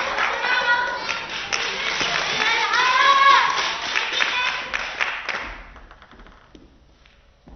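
Spectators clapping and cheering, with a few shouted voices over the applause. About five and a half seconds in, it dies away to a quiet hall.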